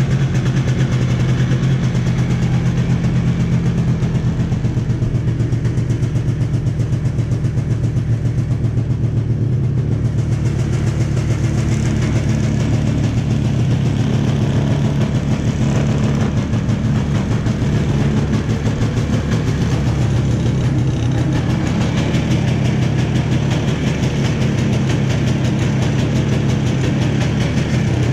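Yamaha Bravo snowmobile's two-stroke engine idling steadily, warming up after a cold start in sub-zero weather.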